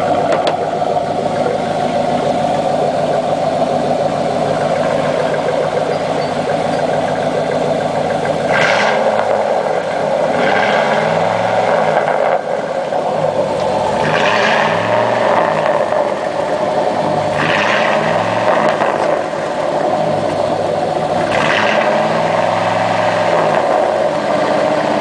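1991 Pontiac Firebird Formula's V8 running through an exhaust with no mufflers, only dual catalytic converters. It idles steadily, then is revved and let fall back about four times in the second half.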